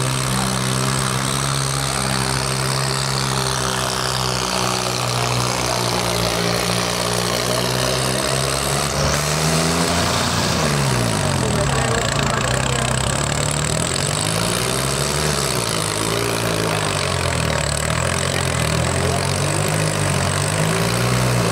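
Swaraj 855 tractor's three-cylinder diesel engine running at a steady speed, then its speed dipping and rising several times over the second half as it is revved.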